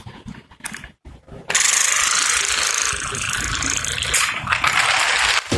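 A few faint clicks, then, about one and a half seconds in, a loud, dense mechanical rattling that keeps going until it cuts off just before the end.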